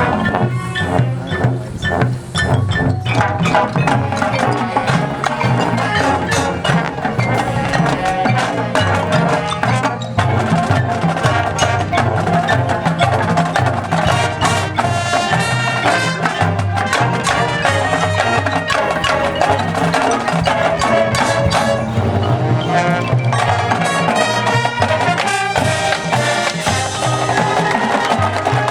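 Marching band playing a field show, with drums and mallet percussion striking prominently through the music.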